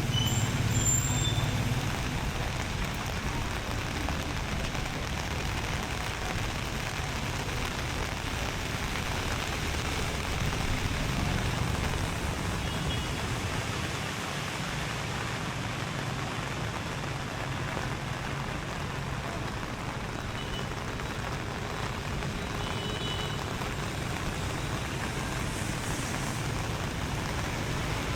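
Steady rain falling and pattering on hard surfaces, with a low rumble of traffic that is strongest about the first two seconds. A few faint high chirps come through now and then.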